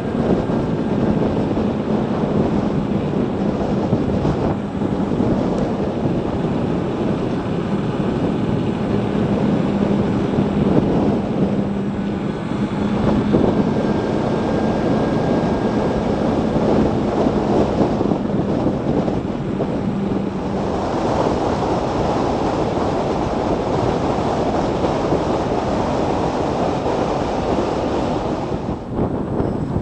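Wind rushing over the microphone and road noise while riding an electric motorcycle at speed. A steady low hum runs underneath and stops about two-thirds of the way through.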